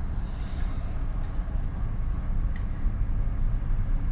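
Steady low rumble of a car, heard from inside the cabin as it waits or creeps forward in a line of traffic.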